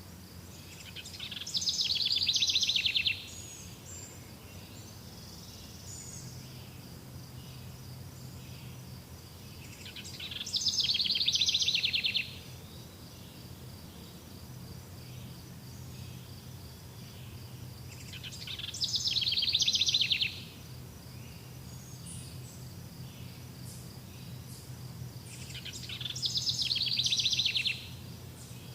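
Forest bird song: a loud, rapid trilled phrase about a second and a half long, building up and then cutting off sharply, sung four times about eight seconds apart. Faint, steady insect-like chirping runs beneath it.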